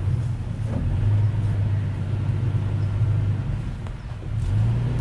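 Pickup truck engine running steadily at low revs. It drops off briefly about four seconds in, then picks up again.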